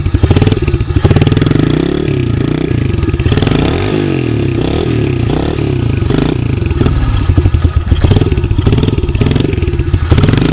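Yamaha TT-R110 pit bike's small four-stroke single-cylinder engine being revved over and over. Its pitch climbs and drops back roughly once a second.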